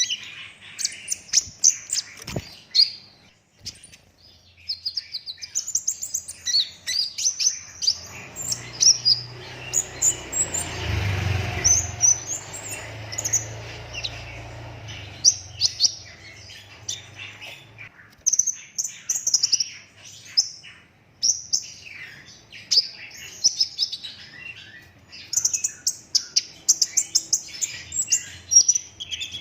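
A caged kolibri ninja sunbird singing in fast, rapid-fire runs of sharp, high chirps and trills. A low rumbling hiss sits under the song for several seconds in the middle.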